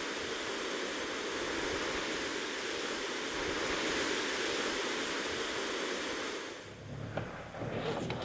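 Steady wash of ocean surf. It cuts off suddenly near the end, giving way to a quieter low hum.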